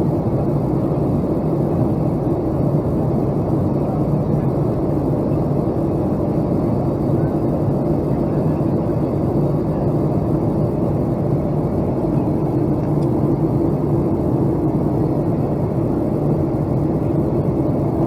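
Steady, unchanging drone of a Boeing 757-200's engines and airflow, the kind of noise heard through an airliner's cabin in flight.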